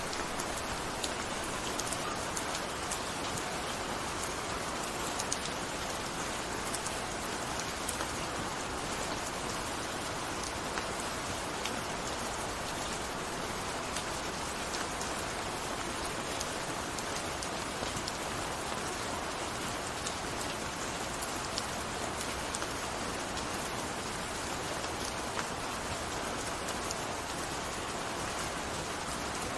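Steady gentle rain falling, a constant patter with many small individual drops ticking on a surface.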